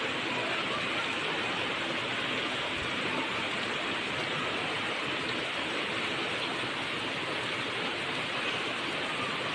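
Steady rainfall, a continuous even hiss of rain with no separate drops standing out.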